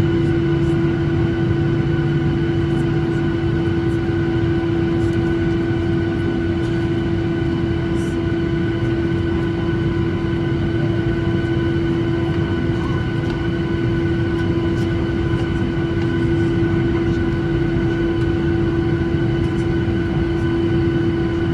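Boeing 737-800 cabin noise with its CFM56 engines running at idle: a steady rumble and hum carrying one strong steady tone, with a few faint clicks and rattles.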